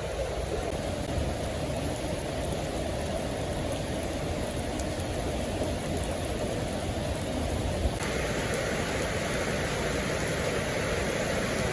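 Steady rain falling, an even hiss that shifts slightly in tone about eight seconds in.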